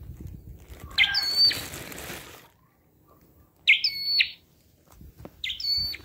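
A songbird calling three times in short, sharp whistled phrases with quick pitch turns: about a second in, just before the four-second mark, and near the end. Low rustling runs under the first call.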